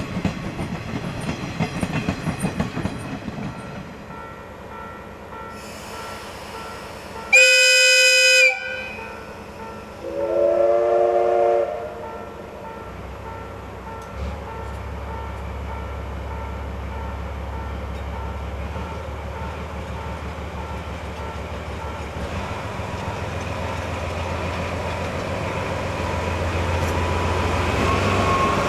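Locomotive whistle, most likely a steam locomotive's, giving a loud, high, one-second blast, then a lower blast of several tones together lasting about a second and a half. Before the whistle there is rhythmic running noise. After it a low rumble of the train grows steadily louder toward the end.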